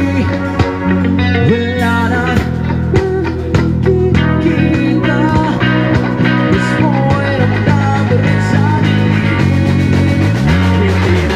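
Live rock band playing an instrumental passage: an electric guitar line with bent notes over bass and drums, the bass sliding down and back up near the end.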